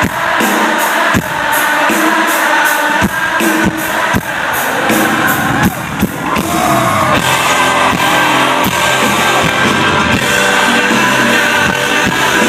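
Live pop-rock band playing a song, with a sung lead vocal over the band and drums.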